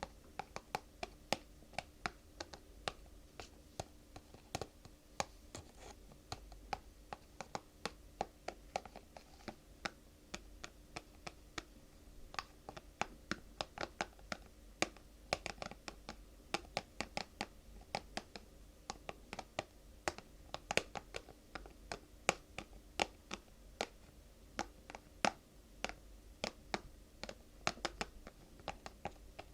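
Fingers tapping and scratching on objects for ASMR: a quick, irregular run of sharp light taps, several a second, over a faint steady hum.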